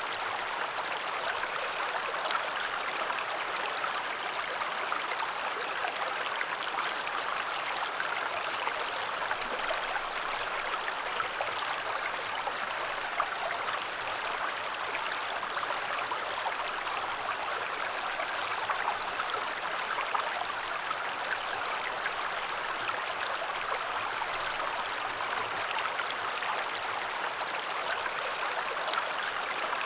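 Matsukawa river flowing: a steady rush of running water.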